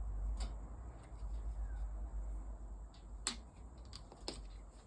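A few faint, sharp clicks from a screwdriver tightening the small screw that holds a chainsaw motor's carbon brush holder, over a low steady hum.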